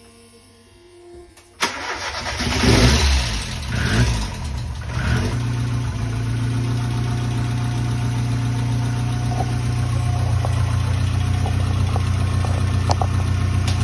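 Ford Sierra RS Cosworth's turbocharged 2.0-litre four-cylinder engine starting: it fires suddenly about a second and a half in, revs unevenly for a few seconds, then settles into a steady idle.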